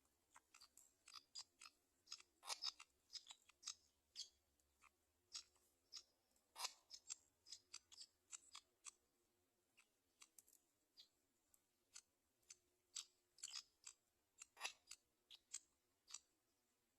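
A run of sharp, irregular clicks and crunchy snips, one or two a second, some louder than others: a black-winged kite's beak tearing at the flesh of prey.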